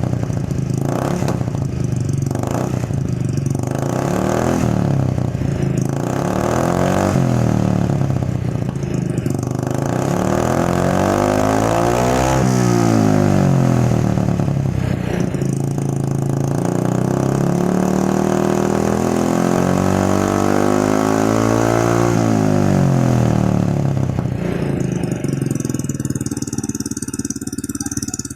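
Honda Vario 110 carburettor scooter's single-cylinder four-stroke engine revved through its exhaust: several short throttle blips, a higher rev about midway, then a longer held rev before it drops back to a steady idle near the end.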